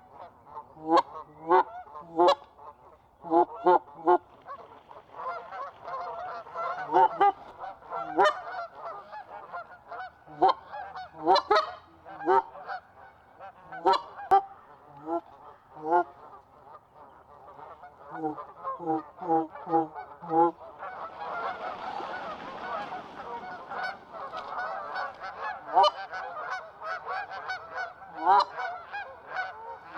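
A flock of Canada geese honking, with many loud calls overlapping. About twenty seconds in, the calling swells into a dense continuous chorus with a rushing noise beneath it.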